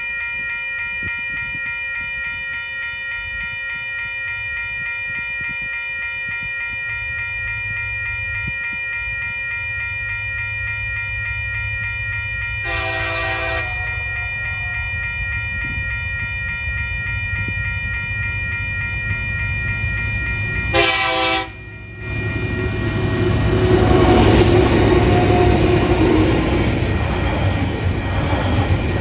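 Level crossing warning bell ringing steadily while a diesel freight train's engine rumble grows. The locomotive's horn sounds two blasts of about a second each, about 13 and 21 seconds in. From about 22 seconds the locomotive and wagons pass over the crossing, much louder.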